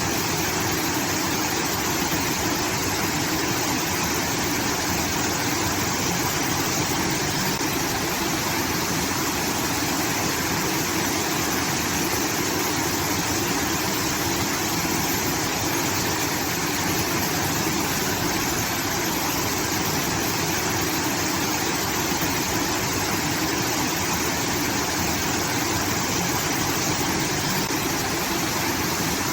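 Water pouring from a rice-field irrigation outlet, a steady rushing like a small waterfall.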